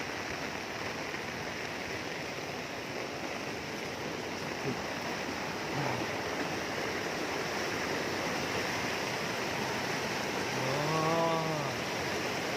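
Rainwater rushing along in a heavy downpour, a steady even rushing hiss. A short hummed voice rises and falls about eleven seconds in.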